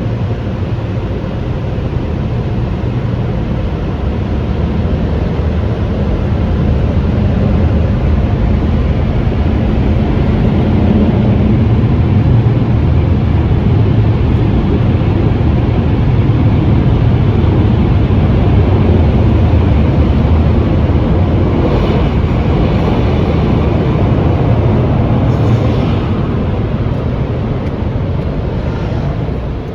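Sonny's car wash tunnel equipment running with a loud, steady roar, heard from inside the car, with a faint higher whine briefly around 22 and 25 seconds in.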